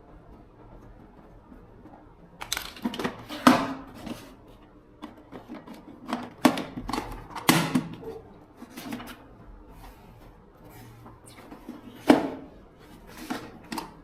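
Irregular sharp clicks and knocks of hard objects being handled, starting a couple of seconds in, a few of them louder than the rest.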